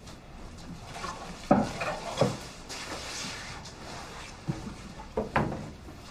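A handful of short knocks and thumps, like things being handled or set down in a room. The loudest comes about one and a half seconds in, and two more close together come near the end.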